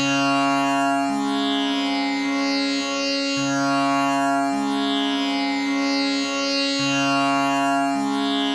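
Tanpura drone tuned to C sharp: its strings are plucked one after another about once a second, each ringing on under the next in a steady, buzzing, shimmering wash of overtones.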